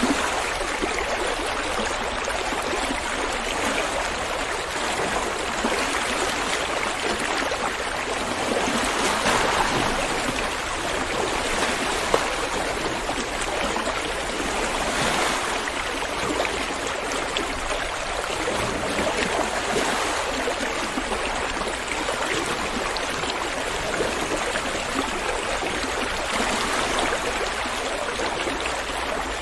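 River water flowing steadily, a continuous rushing burble that swells a little now and then.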